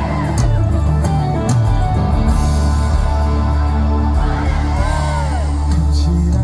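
Live band playing a gospel worship song in an instrumental passage between sung lines: steady bass and drums under sustained chords, with a melody line that rises and falls near the start and again later on.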